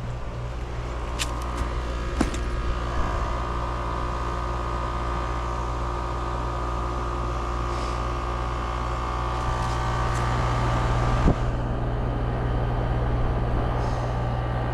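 Air conditioner's outdoor condenser unit running just after start-up: a steady low hum with a high whine that sets in about a second in and fades about eleven seconds in, plus a few short knocks. The condenser fan motor is running very hot, which fits the screeching the owner reported.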